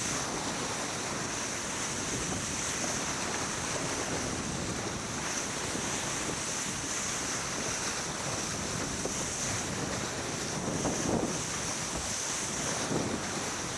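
Wind buffeting the microphone over the steady rush and wash of water along a sailboat's hull, with a couple of brief louder splashes near the end.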